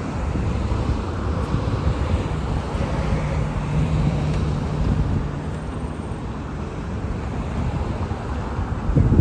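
A city transit bus's diesel engine running as it passes on the road, with a steady low engine hum and traffic rumble, and wind buffeting the microphone. A brief louder low rumble comes near the end.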